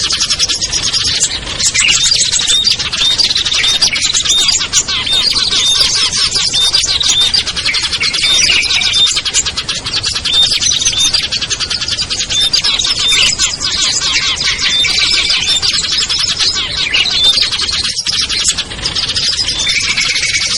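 Dense chorus of small songbirds chirping and trilling without a break, many rapid high calls overlapping, as in a mixed bird-lure recording played to draw wild small birds down.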